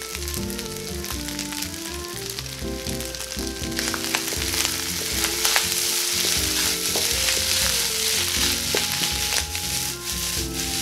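Rice frying in a nonstick wok with freshly added oil, sizzling as a wooden spatula stirs and scrapes it. The sizzle grows louder about four seconds in.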